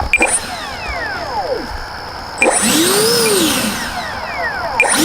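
The 64mm electric ducted fan of an FMS F-35 foam RC jet spooling up and down under throttle: a whine that falls away, rises and falls again about halfway through, then jumps back up to a steady high whine near the end. The throttle is being pushed to try to taxi the jet on grass, which it cannot move on even at full throttle.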